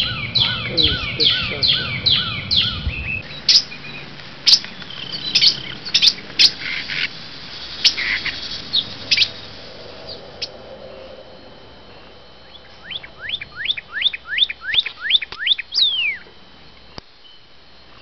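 Northern cardinal song: a run of quick, repeated down-slurred whistles, then a scatter of sharp chip notes, then another fast run of down-slurred whistles about twelve seconds in.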